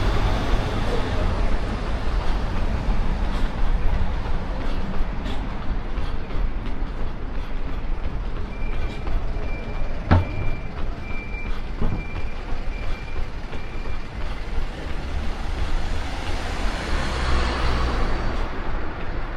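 Steady street traffic rumbling past. About halfway through, a run of short high electronic beeps sounds about twice a second for several seconds, with a couple of sharp knocks among them, and the traffic noise swells near the end as a vehicle passes.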